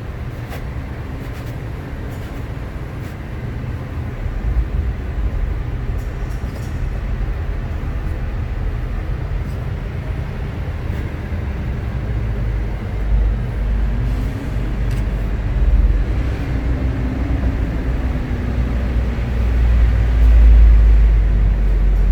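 Low rumble of passing vehicles, building up and loudest near the end, with a faint engine drone coming in about two-thirds of the way through.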